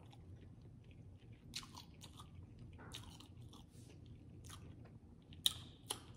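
A person chewing a mouthful of food with soft, wet mouth clicks throughout, and a few sharper clicks about five and a half and six seconds in.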